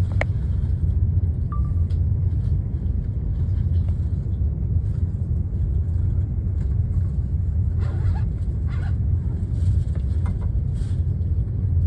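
Steady low rumble of a train in motion, with a few faint short sounds above it near the end.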